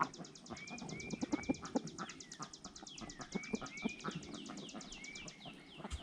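Birds calling: a fast, high trill of evenly repeated chirps, about ten a second, that fades out near the end. Over it come a few short chirping calls, with soft clicks and scuffs underneath.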